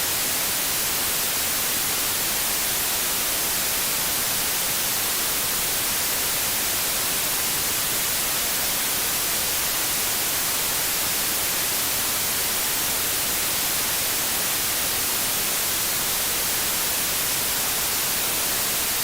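Television static hiss: a steady, even white noise, bright and strongest in the upper range, with no changes.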